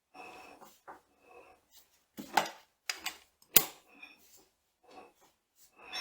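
Hand tools and steel machine parts clinking and knocking during gearbox disassembly: scattered light clanks with faint metallic ringing and two sharp knocks, about two and a half and three and a half seconds in.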